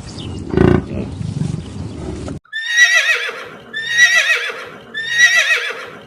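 A horse whinnying three times in a row, about a second apart: three matching high, quavering neighs. Before them, about two seconds of noisy rumbling with a loud burst about half a second in, which cuts off abruptly.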